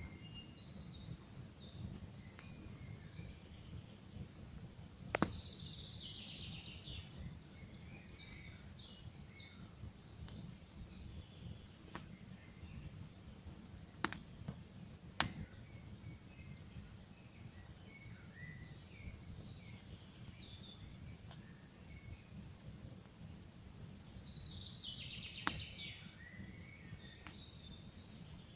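Wood campfire crackling, with a few sharp pops several seconds apart over a low steady rumble, while songbirds chirp throughout. Two longer bird songs, each falling in pitch, come about five seconds in and near the end.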